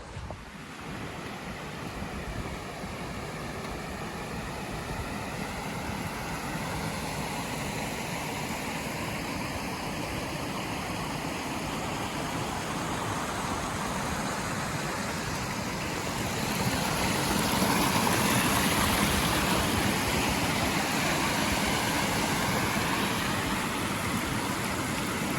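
Rushing water of a creek cascade, a steady noise that grows louder and fuller about two-thirds of the way in, then eases slightly.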